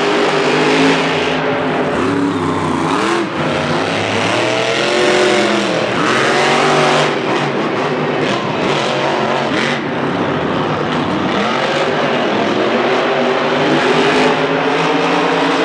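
Monster truck engines revving hard, the pitch swinging up and down again and again.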